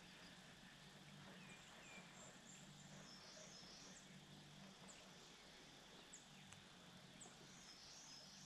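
Faint outdoor ambience: small birds at a distance give short, high chirps and two brief twittering phrases, over a low steady hum.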